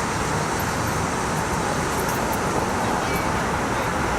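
Heavy rain pouring down in a severe thunderstorm, a steady even hiss with no thunderclap in it.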